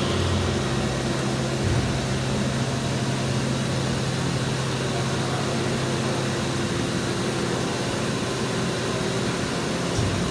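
Steady hum and rushing air of plastics-processing machinery running, with a low steady drone and a couple of brief low knocks, one near the start and one near the end.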